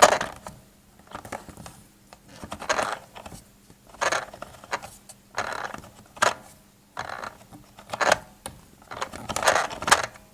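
A broken SM-202A mini sewing machine making short irregular bursts of mechanical noise, about one every second or so, over a faint steady hum, instead of stitching: the machine has failed after about 15 minutes of use.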